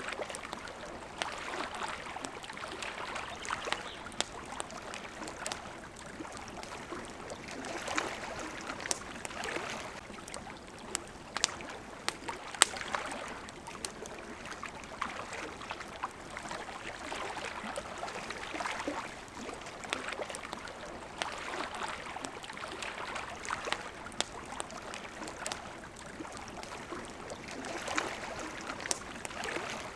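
Small waves lapping at a shore, swelling and fading every few seconds. Sharp pops and crackles from a wood campfire come through at irregular moments.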